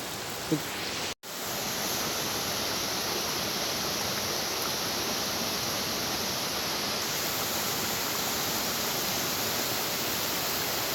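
Steady rush of a waterfall, broken by a brief drop to silence about a second in.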